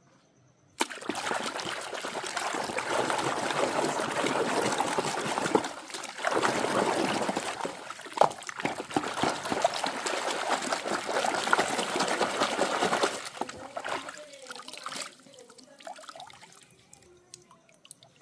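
Water running and trickling over toys being washed. It starts about a second in, dips briefly around six seconds in and stops near fourteen seconds, leaving faint small clicks and knocks.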